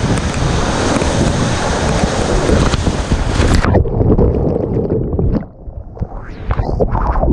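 Rushing whitewater rapids with wind buffeting the microphone. About three and a half seconds in, the hiss cuts off abruptly, leaving a muffled, uneven rumble of splashing water.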